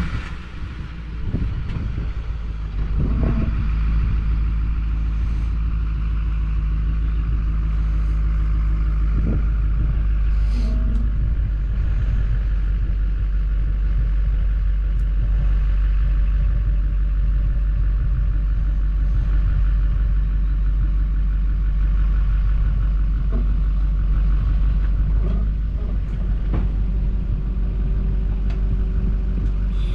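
A motor vehicle running steadily with a deep, constant rumble, building over the first few seconds and then holding even.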